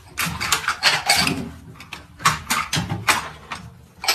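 Irregular clattering and rattling of hard objects, a quick run of sharp knocks and clicks.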